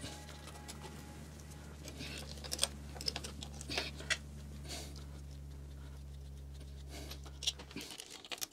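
Scattered light clicks and taps of hands and tools working on a pit bike's carburetor as its lines are disconnected and it is unbolted, over a steady low hum that stops near the end.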